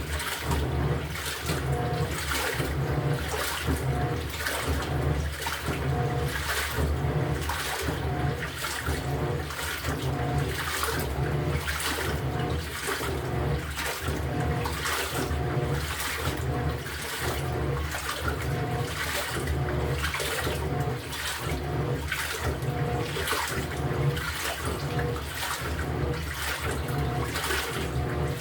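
LG top-loading washing machine agitating a load in water: the pulsator turns back and forth and the water sloshes and churns in steady surges about once a second, with a low motor hum beneath.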